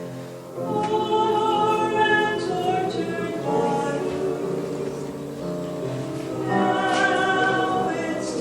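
Choir singing a slow passage of a church cantata, with long held notes that change pitch every second or two.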